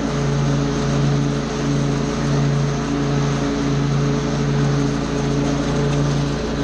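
Small gasoline engine of lawn-care power equipment running steadily under load. Its drone swells and fades about every half second over a broad rushing noise.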